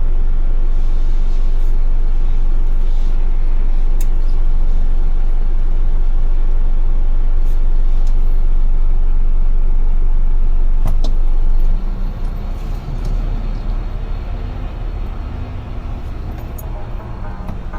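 Cab noise of a UD Trucks Quon heavy truck on the move: a loud, steady low rumble of engine and road. About two-thirds of the way through it drops to a quieter, more uneven rumble, with a few faint clicks along the way.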